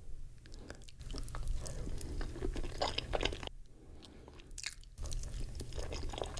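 Close-miked chewing of a mouthful of cheesy lasagna: soft, wet mouth sounds and clicks in irregular clusters, with a brief lull about three and a half seconds in.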